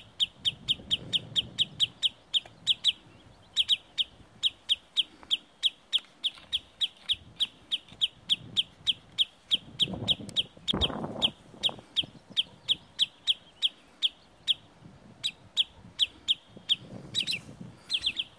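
A sandpiper-type wader calling in alarm near its nest: one sharp, high note repeated over and over, about three or four a second, doubling up near the end.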